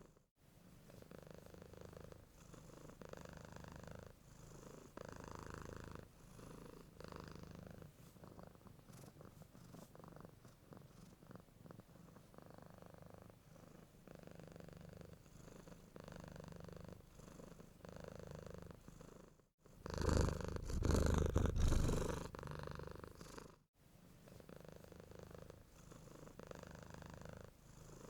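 Domestic cat purring, swelling and fading about every two seconds with each breath. About two-thirds of the way through, a much louder, closer stretch of purring cuts in abruptly and cuts out again about four seconds later.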